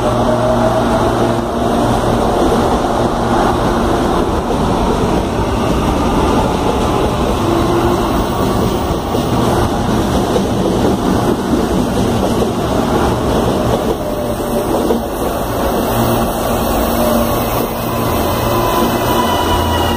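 CAF Series 8500 electric multiple-unit train moving along the station platform: steady wheel-on-rail rumble and running noise, with a thin traction-motor whine gliding in pitch near the start and again near the end.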